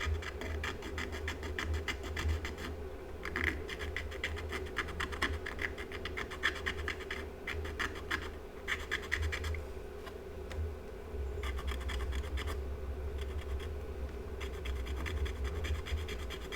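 Glass-fibre pencil scrubbing corrosion off a copper track on a circuit board: runs of fast scratching strokes with a few short pauses, over a steady low hum.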